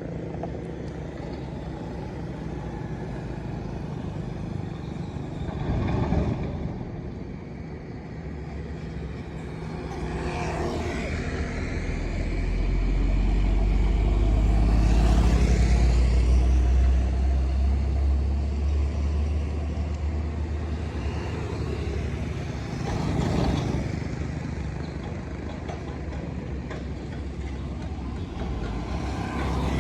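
Heavy trucks driving past one after another, with a deep diesel engine drone and tyre noise that swell and fade with each pass. The low rumble is loudest about halfway through.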